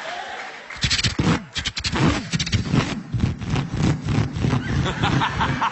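A man imitating a V8 Holden Torana engine with his voice: after a short pause about a second in, a rapid, uneven burble of pops, about five a second, like a lumpy V8 idling and blipping.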